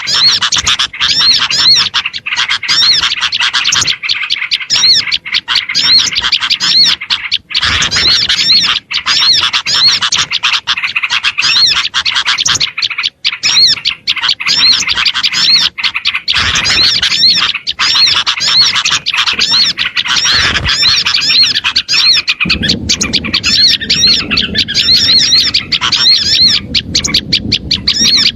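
Dense, continuous chorus of small songbirds giving rapid, repeated, agitated chirping calls, edited into a loop as a lure sound for attracting small birds. A low background rumble joins for the last few seconds.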